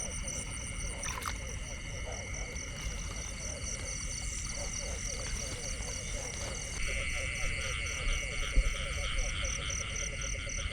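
A night-time-style chorus of frogs and insects: many steady, rapidly pulsing high trills layered together over repeated low croaks, with a louder trill starting up about seven seconds in.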